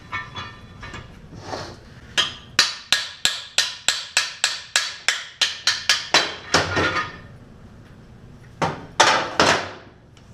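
Hammer rapidly striking metal on a small-block Chevy engine block, about four blows a second for several seconds, then a pause and three heavier blows, as the block's core plugs are knocked out.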